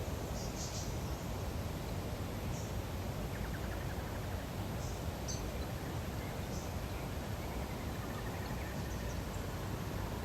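Lakeside nature ambience: a steady low background rush with scattered short, high bird chirps and a couple of brief rattling trills.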